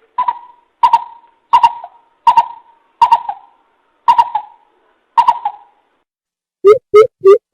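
Coucal calling: seven sharp notes about one a second, then near the end a faster run of deeper hoots begins.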